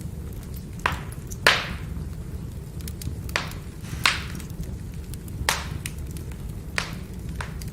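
Burning firewood crackling: sharp pops about once a second, the loudest about one and a half seconds in, among fainter ticks over a low steady rumble.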